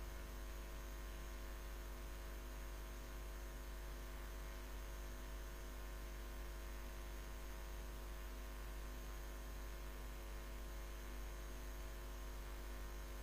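Steady electrical mains hum with a faint hiss, unchanging throughout; no other sound stands out.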